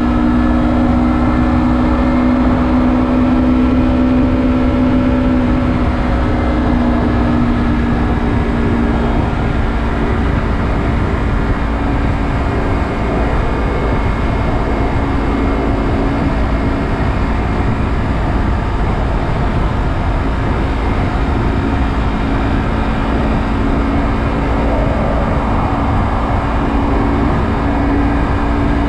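Honda CBR250RR (MC51) parallel-twin engine with an Akrapovic carbon slip-on exhaust, running at steady revs, heard from the bike under a constant rush of wind and road noise. The engine note fades back into the wind noise about nine seconds in and comes forward again near the end.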